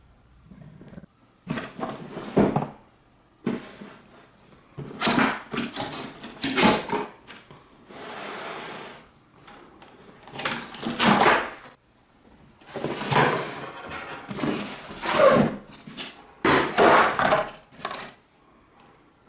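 Hard plastic parts being handled, knocked and clicked together in irregular bursts, with a rustle of packaging about eight seconds in.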